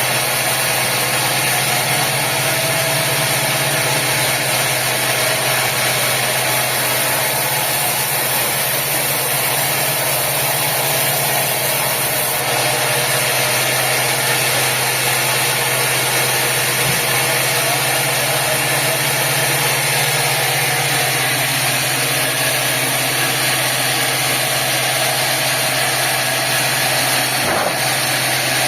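Sawmill machinery running steadily: a constant engine drone with an even wash of mechanical noise, unchanging throughout.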